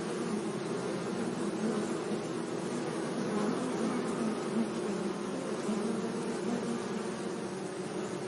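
Bees buzzing in a steady, low, continuous hum, the drone of several wings overlapping without a break.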